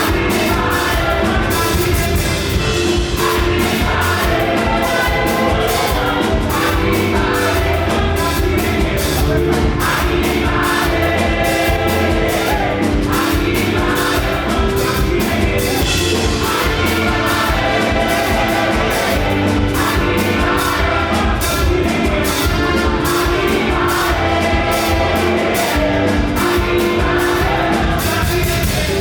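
Live fast gospel praise music: a group of voices singing together over a loud band with a rapid, driving beat.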